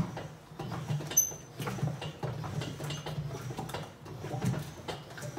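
Steele Mixer's plastic drum being rocked back and forth on its stand to mix self-leveling mortar, with a low churning rumble that swells with each tip, scattered clicks and knocks, and a short high squeak about a second in.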